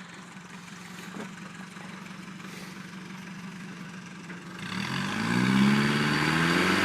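Pickup truck engine idling steadily, then revving up hard about two-thirds of the way in, with a rising rushing noise over it, as a truck under power strains to get a stuck truck free.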